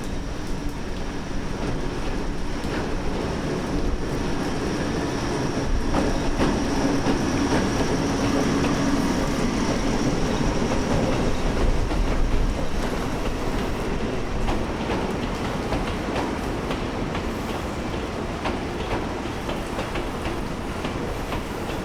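Chichibu Railway Deki 500-class electric locomotive hauling a set of Tobu 10030-series cars into the station, wheels clacking over rail joints in heavy rain. The running noise swells to its loudest about halfway through, then eases while the clacks come more often.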